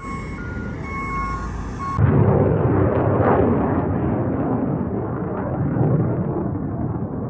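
A vehicle's reversing alarm beeping steadily over a running engine, cut off abruptly about two seconds in by a louder, rough, low rumble that swells and fades.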